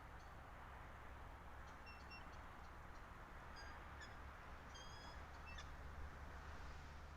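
Faint, short high-pitched bird chirps, a few scattered notes in the middle of the stretch, over a steady hiss and low hum from the nest camera's microphone.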